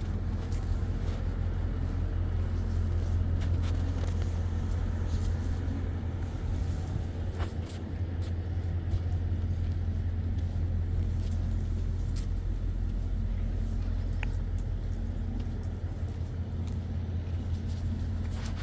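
Truck engine idling steadily: a deep, even hum that holds the same pitch throughout, with a few faint clicks over it.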